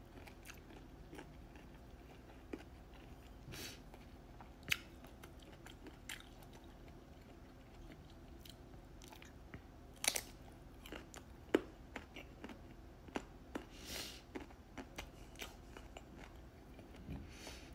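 A person biting into and chewing mango slices topped with bagoong shrimp paste, close to the microphone. The bites and chews come as short, irregular clicks and smacks, with a few louder bites past the middle.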